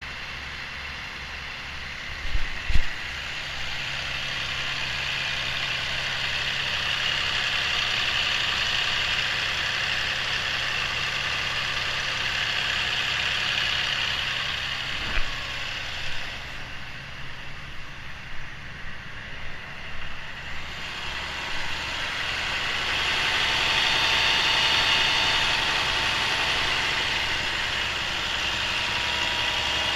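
Caterpillar 470 hp diesel engine running steadily at idle with an even low pulse, sounding sound and healthy. A couple of sharp knocks come about two and a half seconds in and again midway, a few irregular thumps follow, and the engine gets louder for a few seconds near the end.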